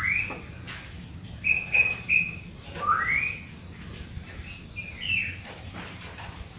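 Sooty-headed bulbul (kutilang) singing in clear whistled phrases. It opens with a rising slurred whistle, gives three short even notes about a second and a half in, another rising whistle near three seconds, and a few short notes around five seconds. The song is billed as carrying phrases copied from the magpie robin (murai).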